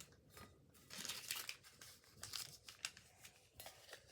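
Crinkling and rustling as a crumpled wrapper is handled and unfolded, in several short bursts, the longest about a second in.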